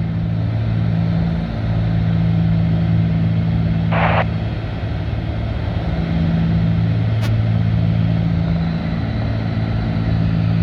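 Cessna 310's twin piston engines and propellers droning steadily in level cruise, heard from inside the cabin, the drone swelling and fading slowly. A short hiss about four seconds in and a faint click a few seconds later.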